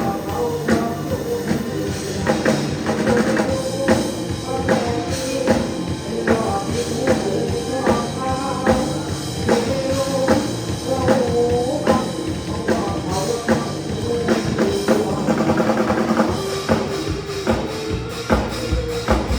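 Band music: a drum kit keeping a steady beat under a wavering melody line.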